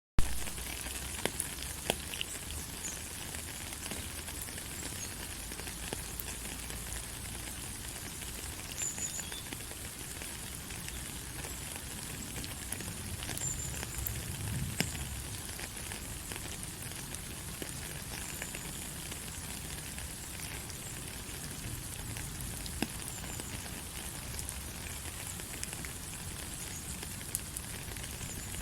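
Steady rain falling, a continuous hiss full of small drop taps and patter. One sharp click right at the start is the loudest moment.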